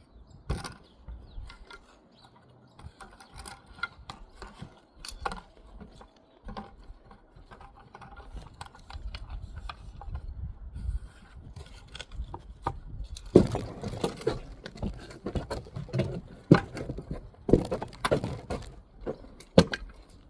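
Masonry hand work on brick and mortar: irregular taps, clicks and scrapes of a trowel and bricks. It gets busier and louder about two-thirds of the way through.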